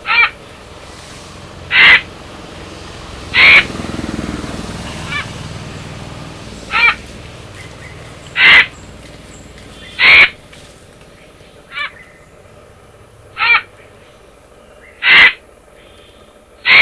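A short, high-pitched animal call repeated about ten times at an even pace, roughly one every second and a half.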